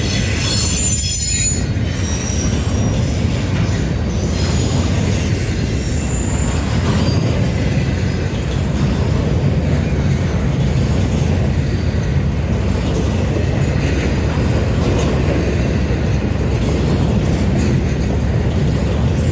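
Train rolling past close by: a steady heavy rumble of wheels on the rails. High wheel squeal rings out in the first few seconds, with fainter squeals later.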